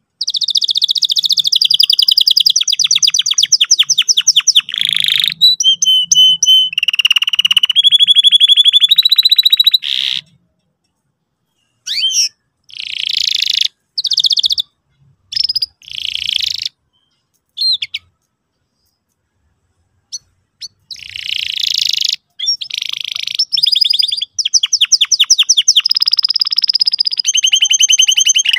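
Canary singing loud, high-pitched song phrases of fast trills and rapidly repeated chirps, broken by two pauses of about two seconds.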